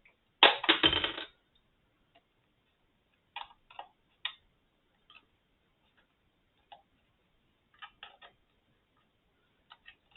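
Plastic instrument casing being pried open with a tool: a short loud clatter about half a second in, then scattered light clicks and taps as the bottom panel is worked loose.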